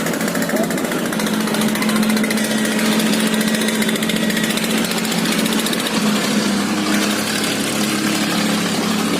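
Motorboat engines running steadily as boats push out through an open sluice gate, a continuous loud engine drone with a fast pulsing beat. A second engine note comes in about six and a half seconds in as another boat draws near.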